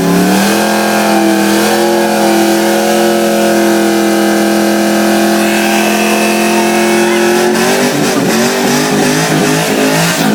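Car engine held at high, steady revs during a burnout, with a hiss of spinning tyres over it. About eight seconds in the revs dip and waver, then rise again.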